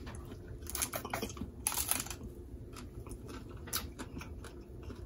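Snow crab legs being cracked and picked apart by hand: irregular small sharp clicks and cracks of shell, several a second at times, with soft eating noises.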